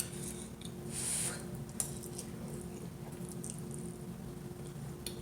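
Quiet eating sounds: a few light clicks of cutlery on a plate and soft mouth sounds, over a steady low hum.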